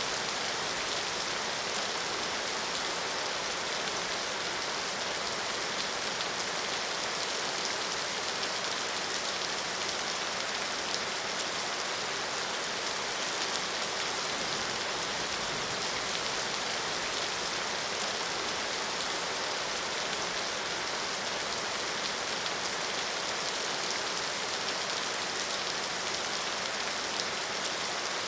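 Steady rain falling, an even hiss of many drops with fine pattering and no change in strength.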